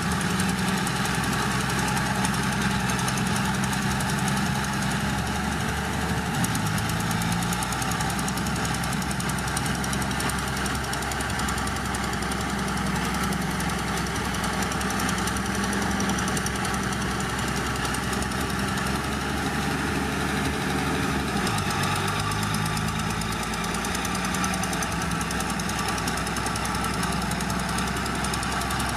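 Heavy diesel engine of an earthmoving machine running continuously under work. Its low note wavers and shifts about seven seconds in and again about twenty-two seconds in.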